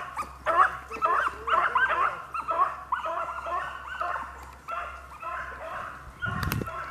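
Rabbit-hunting dogs yipping and barking in quick repeated calls, growing fainter toward the end, with a brief low thump near the end.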